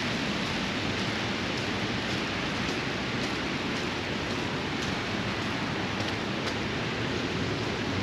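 Steady hiss of falling rain, with faint scattered ticks of drops.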